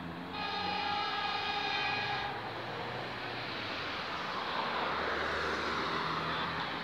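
Electric commuter train at a station platform. About two seconds of a steady high tone with several notes comes near the start, then a steady rushing noise builds.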